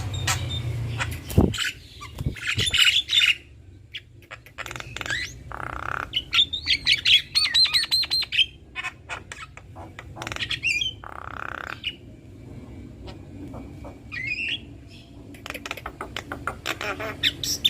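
Javan mynas calling: a mix of harsh squawks, sharp clicks and a fast run of repeated chattering notes, broken by short pauses.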